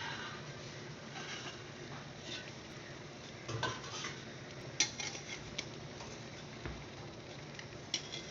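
Kitchenware being handled: scattered clinks and knocks of metal pots and utensils, the loudest a little after three and a half seconds in and again near five seconds in.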